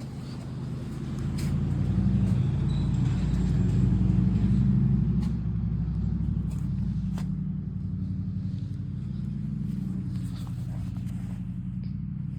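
A motor vehicle engine running: it grows louder over the first couple of seconds, peaks, then holds steady, with a few light clicks over it.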